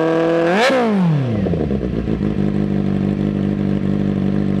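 Kawasaki Z800's 806 cc inline-four engine being revved: held at raised revs, blipped sharply to a peak just under a second in, then dropping back to a steady idle by about two seconds in.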